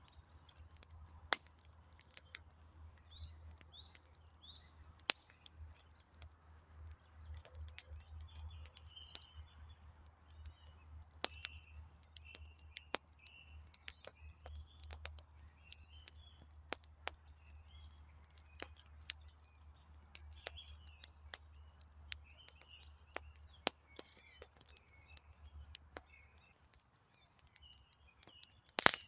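Wood campfire crackling, with frequent sharp pops and one loud pop near the end, while small birds chirp and twitter throughout. A low hum runs underneath and drops away a few seconds before the end.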